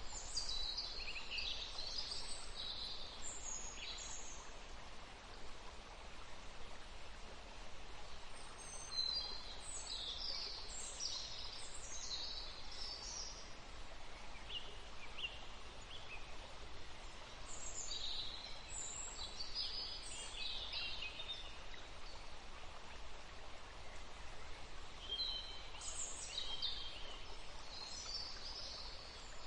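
River water running steadily, with birds singing high chirping phrases in four bouts: at the start, about nine seconds in, about eighteen seconds in and near the end.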